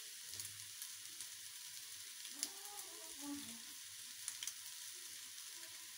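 Faint, steady sizzle of vegetables frying in a hot pan on full flame, with a few light ticks, as handfuls of cold, part-cooked rice are scattered in by hand.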